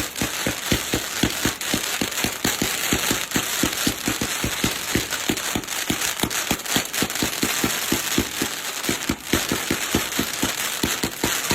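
Fireworks going off in a fast, unbroken string of pops, about six a second, over a constant crackling hiss.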